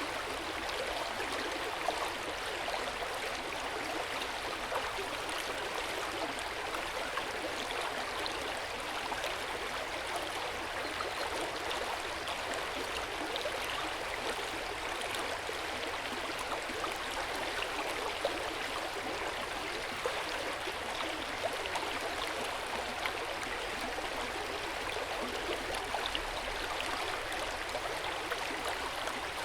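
Hot spring water pouring steadily into an outdoor stone bath, a constant splashing and gurgling of running water with small irregular drips.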